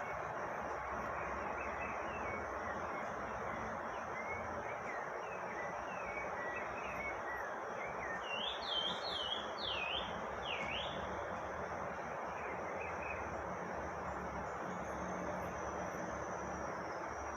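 Birds chirping over a steady outdoor hiss and a high, continuous insect drone. About halfway through comes a run of four louder sweeping call notes.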